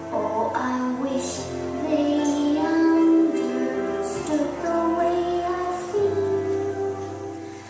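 A song: singing voices with instrumental accompaniment, held notes changing every second or so.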